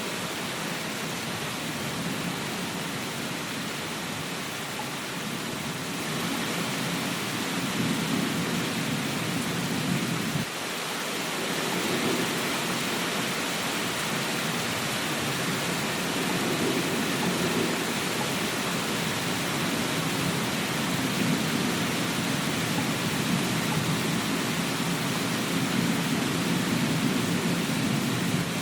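Steady heavy rain, with slow low rumbling swells like distant thunder coming and going; the sound dips briefly about ten seconds in.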